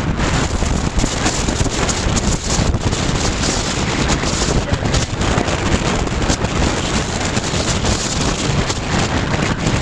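Tropical-storm wind gusting hard across the microphone, a dense rushing noise with fluttering gusts, over surf and driving rain.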